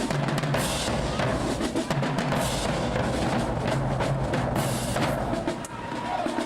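Marching band drumline playing a cadence: bass drums and snares in a dense rhythm with loud crashes about every two seconds, dropping off near the end.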